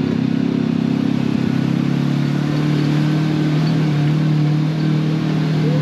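Side-by-side UTV engine running steadily as it drives along a rough trail, its note shifting about two seconds in.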